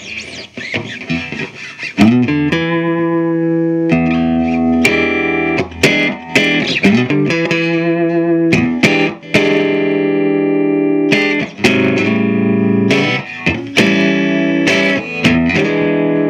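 Electric guitar on its middle pickup, played through a 15-watt cathode-biased EL84 valve amp into a 12-inch speaker: a run of strummed chords, each left to ring for a second or two, with a little natural distortion.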